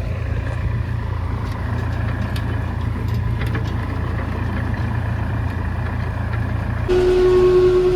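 Tractor engine running steadily with a low drone and a few light clicks. About 7 seconds in the sound changes abruptly and gets louder, with a strong steady hum.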